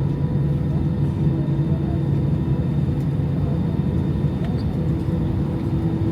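Steady cabin rumble of an Airbus A319 taxiing after landing, with a constant engine hum heard from inside the cabin.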